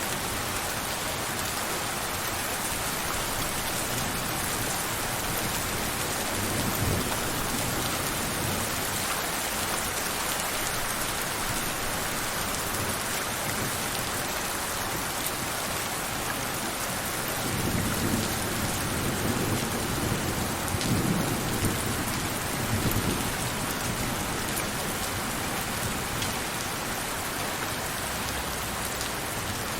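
Steady heavy rainfall hissing on surfaces, with distant thunder rumbling low, a short rumble about a quarter of the way in and a longer rolling one from just past the middle.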